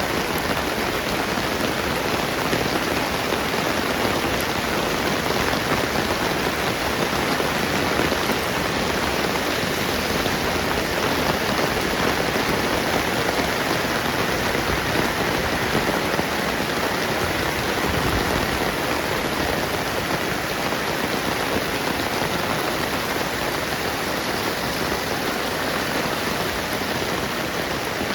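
Steady rainfall: an even, dense hiss of rain falling on the ground and surrounding surfaces.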